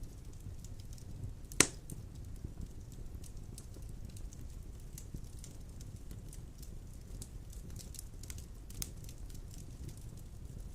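Large logs burning in a stone fireplace: a steady low rumble of flame with scattered small crackles, one sharp loud pop about a second and a half in and a smaller pop later on.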